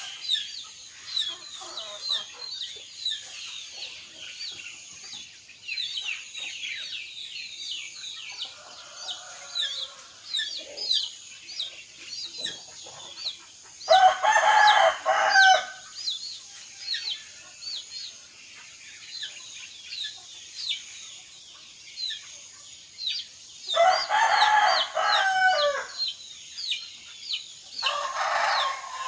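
A rooster crows three times, each crow about two seconds long: about halfway through, again near the end, and once more just before the end. Small birds chirp rapidly and steadily in the background the whole time.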